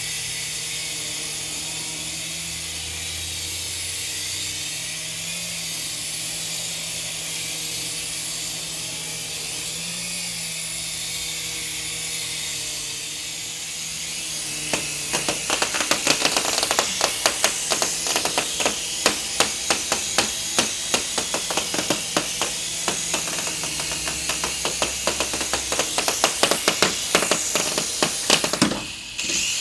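Small electric RC helicopter hovering, its motors and rotor making a steady whirring hiss. From about halfway, rapid irregular sharp clicks and taps join it.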